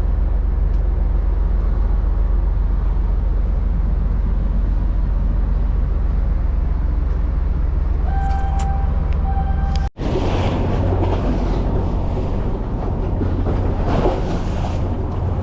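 Strong wind buffeting the microphone on a ship's deck as a steady low rumble, with a short high tone sounding twice near the end of the first part. After a sudden break about ten seconds in, the wind goes on as a rushing, gusting noise.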